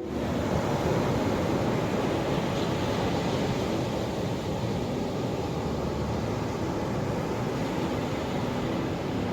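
Ocean surf rushing steadily, a continuous wash of breaking waves. Faint soft music tones creep in near the end.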